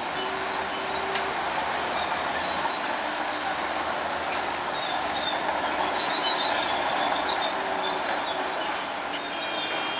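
Bulldozer running steadily under heavy diesel power, with metallic squealing and clanking from its steel crawler tracks.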